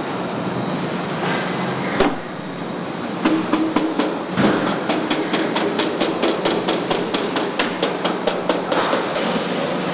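Truck assembly-line noise: a single sharp bang about two seconds in, then a fast even run of sharp strikes, about five a second, for some six seconds, over a steady machine hum.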